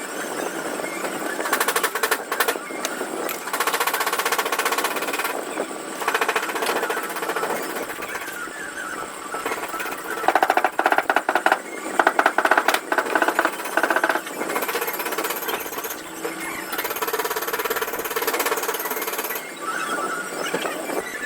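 Rapid, repeated hammering or tapping on metal in bursts, heaviest in the middle, typical of working a dent out of a car body panel.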